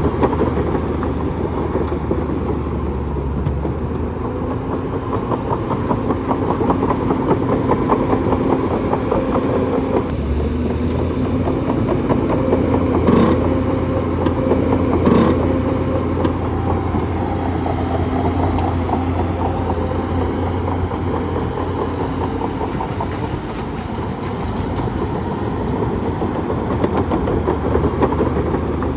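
Bulldozer's diesel engine running steadily under a dense rattle, with two sharp knocks about two seconds apart midway through.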